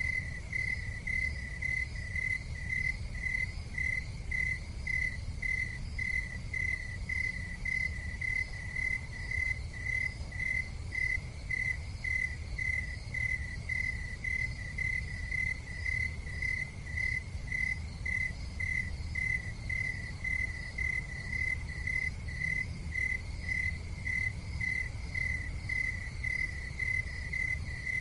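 Cricket chirping steadily in an even rhythm, about two high chirps a second, over a low steady rumble.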